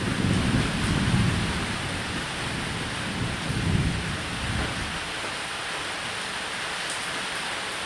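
Steady heavy rain with thunder rumbling low, swelling in the first second or so and again about four seconds in.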